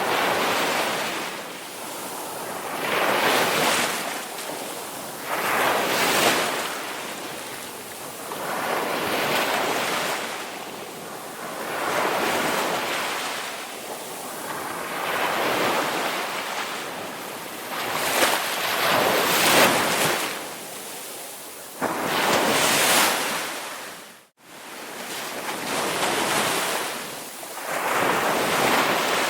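Ocean waves washing in, one swell of surf about every three seconds, with a brief sudden dropout about two-thirds of the way through.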